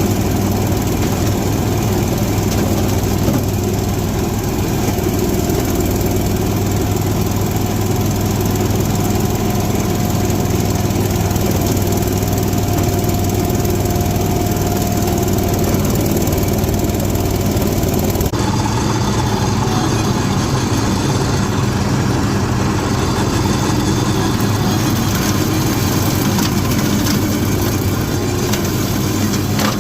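Old Allis-Chalmers compact tractor's engine running steadily, with an abrupt change in its tone about 18 seconds in.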